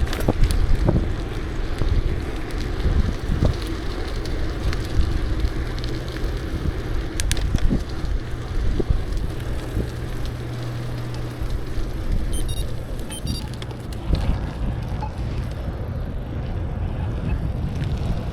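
Riding noise from a bicycle: wind buffeting the microphone and steady tyre rumble, with scattered clicks and rattles. A low steady hum comes in around the middle of the stretch.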